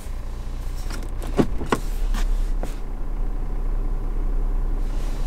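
2011 Ford Edge's V6 engine idling, heard from inside the cabin, with the low drone getting stronger about two seconds in while the transmission sits in gear during the post-fluid-change gear-cycling sequence. Two short sharp clicks come about a second and a half in.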